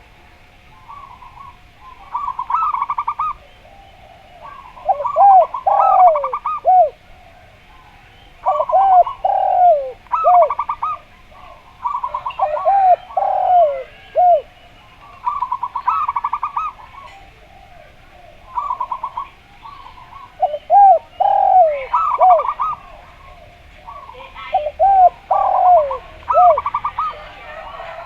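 Zebra dove and spotted dove calling back and forth. The zebra dove gives fast, trilled cooing phrases, and the spotted dove answers with groups of three or four arching coos. They come in bursts every few seconds, often overlapping.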